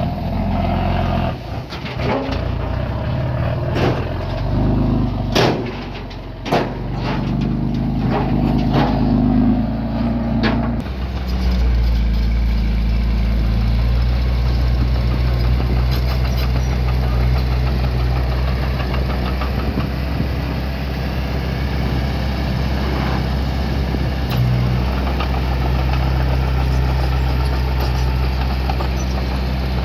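Engine of a small earthmoving machine running, with several sharp knocks and clanks and an uneven engine note in the first ten seconds or so, then a steady low drone.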